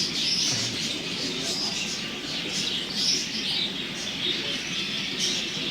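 Many small caged birds chirping at once, a dense run of short, overlapping high chirps.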